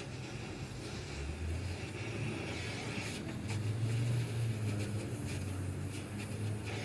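A car engine running, a little louder and higher in pitch in the middle, with a few light clicks over it.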